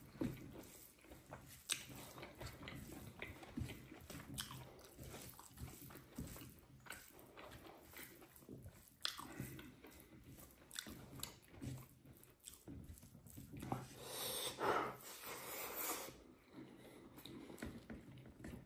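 Close-up eating sounds: a person biting and chewing fried pork and rice, with soft wet mouth clicks throughout. A louder, noisier stretch of about two seconds comes near the end.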